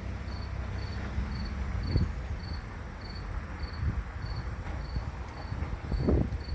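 A cricket chirping in a steady, even rhythm of about two high chirps a second, over a low background rumble, with a couple of soft thumps about two and six seconds in.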